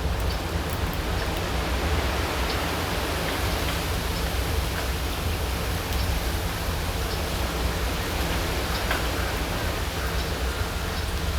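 Steady rushing outdoor noise with a deep low rumble, like wind or moving water, unbroken throughout, with a few faint clicks scattered through it.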